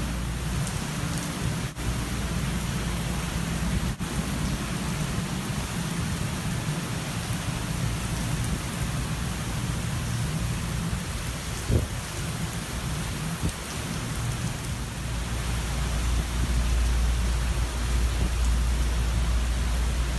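Hurricane wind and driving rain: a steady rush of noise over a low rumble, swelling louder in the last few seconds. A single short knock about twelve seconds in.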